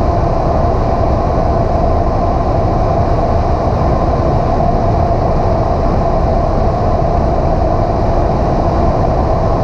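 Single-engine piston airplane's engine and propeller running at a steady power, an even drone with no change in pitch.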